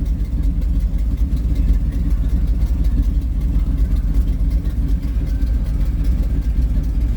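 1940 Ford pickup hot rod's engine idling steadily as it warms up after a cold start.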